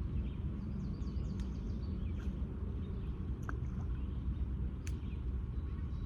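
Steady low rumble of outdoor background noise, with a few faint, brief bird chirps scattered through it.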